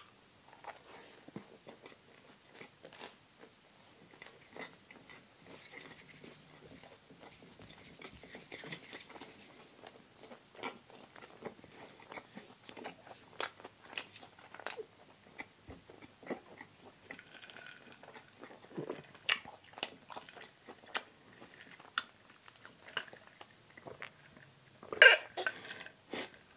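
Close-miked chewing and biting of food, with soft crunches and irregular wet mouth clicks and smacks. One louder burst comes near the end.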